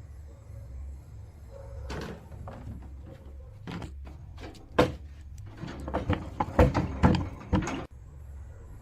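A door being knocked and banged: scattered knocks, one loud bang about five seconds in, then a rapid flurry of bangs and rattles that stops abruptly near the end. This is heard as something trying to get in.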